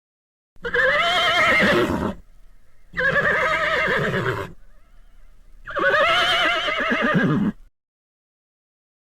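A horse whinnying three times, each a quavering call of about one and a half to two seconds, with short pauses between.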